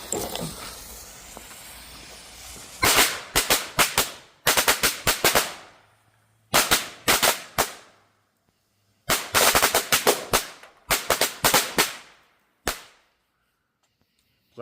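A pack of 50 Black Cat firecrackers going off: a couple of seconds of hiss, then rapid, irregular volleys of sharp bangs in several bursts with short pauses between them, ending with one lone bang.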